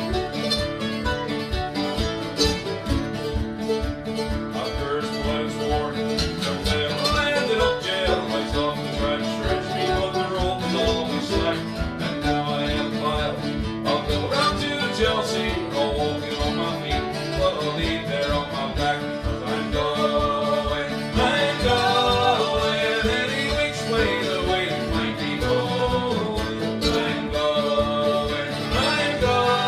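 A band playing an up-tempo folk song: strummed and plucked strings over a fast, steady beat.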